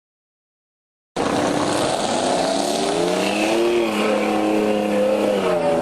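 About a second of dead silence, then an off-road vehicle's engine comes in abruptly, running hard with its pitch rising and falling as it revs up and down.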